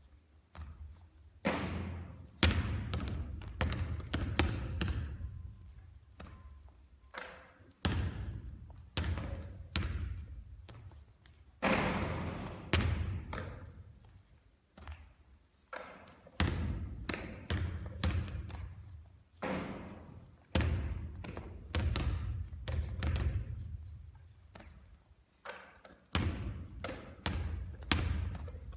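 A basketball bouncing and thudding repeatedly during shooting practice. There is a sharp impact every second or two, each with a short ringing tail, and some come as runs of smaller bounces dying away.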